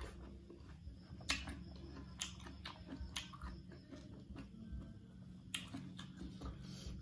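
Close-miked chewing and crunching of raw unripe fruit, with several sharp, crisp crunches.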